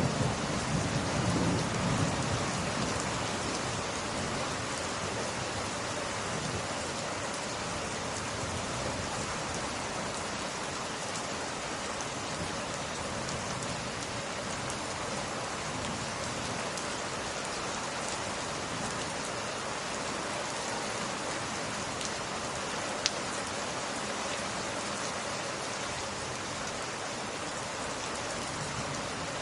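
Steady rain falling, an even hiss throughout, with a low roll of thunder dying away in the first couple of seconds. A single sharp tick stands out about 23 seconds in.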